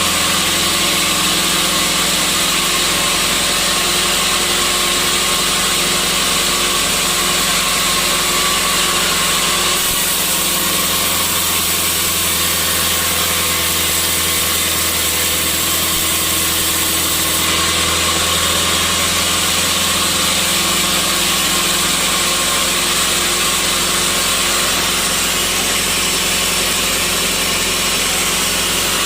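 Sawmill saw machinery running steadily: a continuous mechanical hum with steady tones and a broad hiss.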